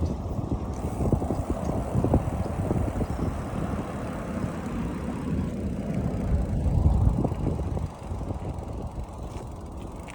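Wind buffeting the microphone of a moving bicycle, a dense crackling rumble with road noise underneath; it eases about eight seconds in.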